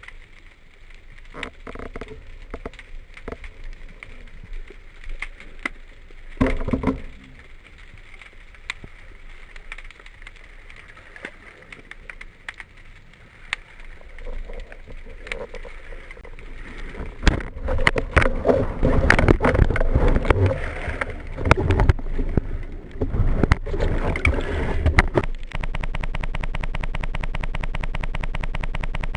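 Underwater sound from a spearfishing dive: scattered sharp clicks over a low wash of water noise, swelling after the middle into loud bubbling and splashing. Near the end it switches suddenly to a steady, very rapid pulsing.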